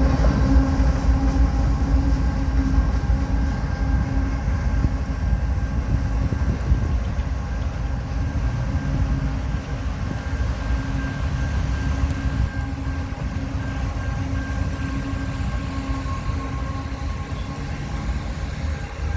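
Freight train rolling past: a steady low rumble of rail cars with a sustained humming tone.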